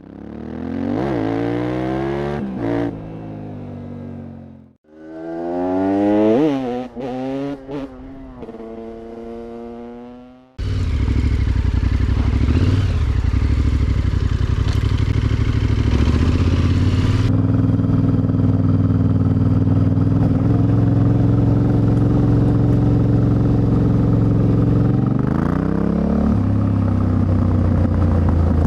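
Yamaha Ténéré 700's 689 cc CP2 parallel-twin engine, with an Akrapovic exhaust, revving up and dropping back several times over the first ten seconds. It then changes abruptly to running at a steady engine speed, with a brief rise in revs near the end.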